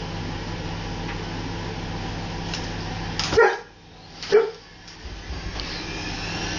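Washing machine on its spin cycle, a steady low hum, then a dog barking twice, loudly, about three and four seconds in. The hum drops away at the first bark.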